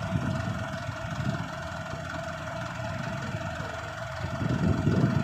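Mitsubishi Canter PS125HD dump truck's diesel engine idling steadily under a thin steady whine. The low rumble grows louder about four and a half seconds in.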